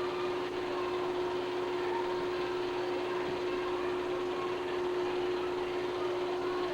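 Steady machine hum and whir with one constant tone, unchanging throughout.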